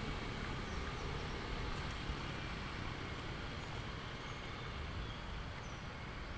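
Steady outdoor background noise: a low rumble with an even hiss above it, no distinct events.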